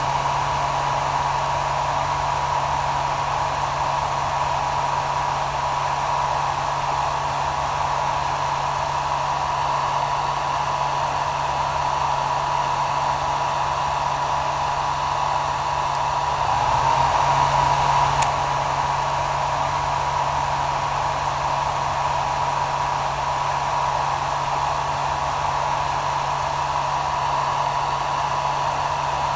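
Hair dryer running steadily: an even rush of air over a steady low motor hum, swelling slightly louder for a moment a little past the middle.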